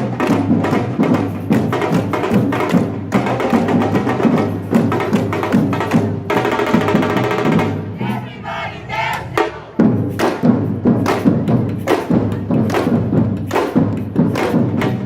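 Batucada samba percussion ensemble drumming in a fast, dense rhythm. About six seconds in the drums stop for a break with a long held tone, and about ten seconds in they come back in together.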